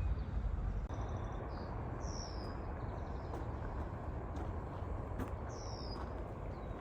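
Birds calling over a steady low background rumble: a few short high notes about a second in, then two high calls that slide downward in pitch, one about two seconds in and another about five and a half seconds in.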